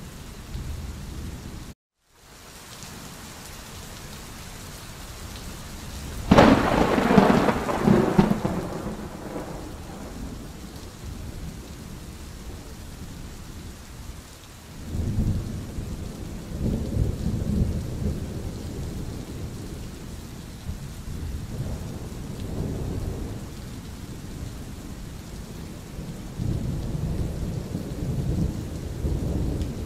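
Steady rain with thunder: a loud clap about six seconds in that rolls away over several seconds, followed later by long, low rolling rumbles. The sound drops out for a split second near the start.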